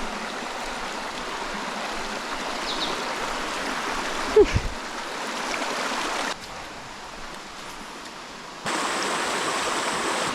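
Rainforest creek water running and splashing over rocks, a steady rush that drops quieter for about two seconds past the middle before coming back. A single brief thump about four seconds in.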